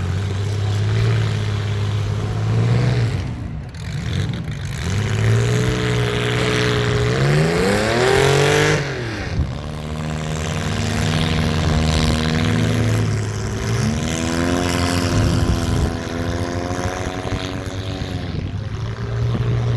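Compact demolition-derby car engines running and revving. One engine climbs steeply in pitch to a hard rev about eight seconds in, drops off sharply, then holds at a high rev for several seconds.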